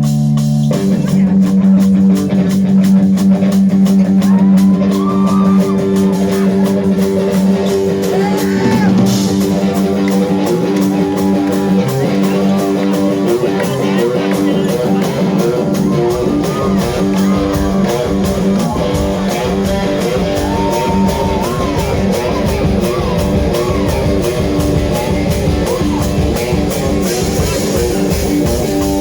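Rock band playing live: electric guitar and bass hold steady low notes under a wavering melody line, and the drums come in about halfway through.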